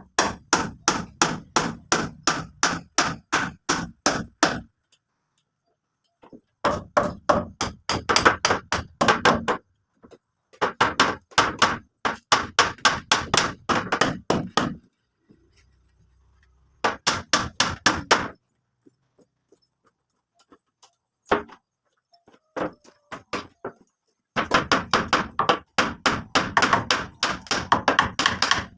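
Rapid hammer strikes, about four to five a second, in several runs of a few seconds each with short pauses between.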